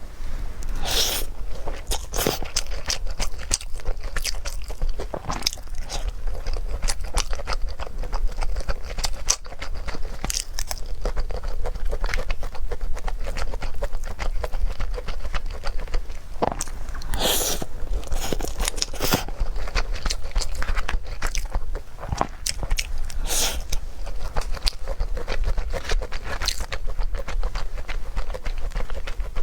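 A person eating close to the microphone: biting and chewing, with dense small crackling clicks and a few louder crunchy bites.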